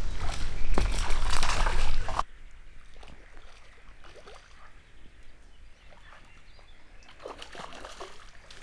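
Water splashing and sloshing close by, with a few sharp knocks, loud for about two seconds and then dropping abruptly to a much quieter outdoor background with faint splashes.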